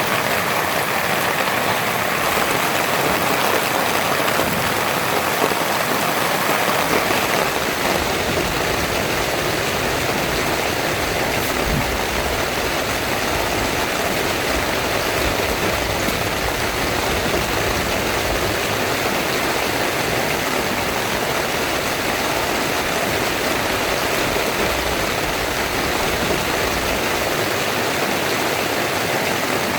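Heavy rain pouring steadily in a dense, even hiss, with a low rumble joining underneath several seconds in.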